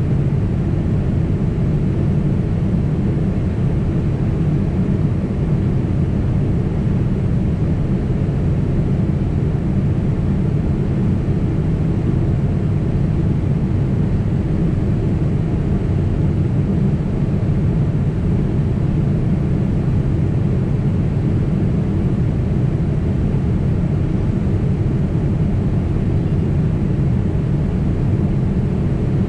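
Steady in-cabin noise of a Boeing 767 airliner in flight: engine and airflow noise, mostly a deep, even rumble that does not change.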